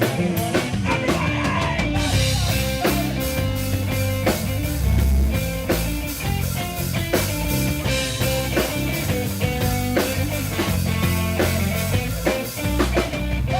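A live rock band playing an instrumental passage with drum kit, bass and guitar and no vocals.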